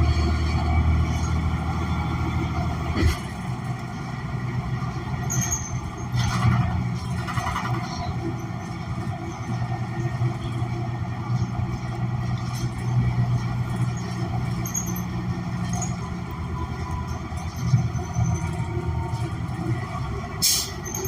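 A New Flyer XN40 transit bus under way, heard from inside the cabin: its Cummins Westport ISL G natural-gas engine and Allison transmission run with a steady low hum. There is a click about three seconds in and a short hiss near the end.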